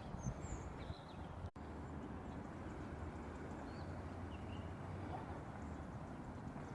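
Steady low outdoor noise with a few faint, short bird chirps above it; the sound cuts out for an instant about one and a half seconds in.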